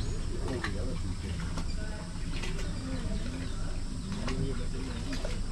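Birds calling, with low wavering cooing calls and a few short high chirps, over a steady low rumble.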